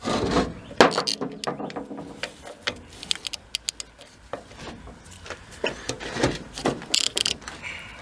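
Irregular metal clinks, knocks and clatter of hand tools and pump parts being handled during disassembly of a vane fuel pump, with a loud knock about a second in.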